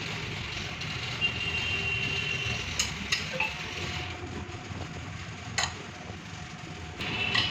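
Serving spoon clinking and scraping against plates as biryani is served, with a few sharp clinks over a steady background hum.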